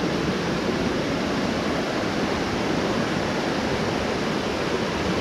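Rushing creek water: a steady, unbroken rush of a fast-flowing mountain stream.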